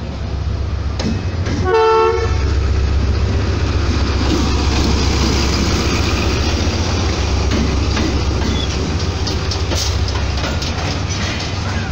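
Pakistan Railways diesel locomotive running into the station with a steady low engine rumble. It gives one short horn blast about two seconds in, then its passenger coaches roll past close by.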